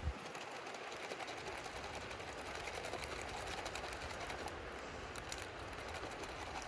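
MRE drink pouch of water and lemon-lime electrolyte beverage powder being shaken hard and steadily to mix the powder in, a fast, even rhythm.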